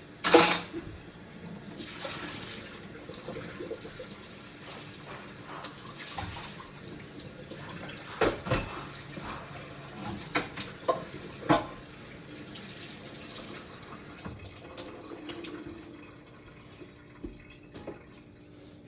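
Water running from a tap into a sink, with a loud knock at the very start and several sharp knocks and clatters in the middle.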